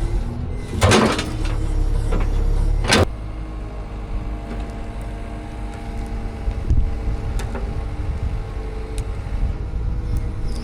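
Two loud knocks in the first three seconds, then a steady engine running, a low hum with several held tones.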